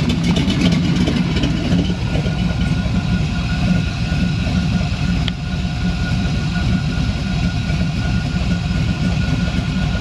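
Pontiac Trans Am engine idling steadily, a dense low exhaust note with no change in speed.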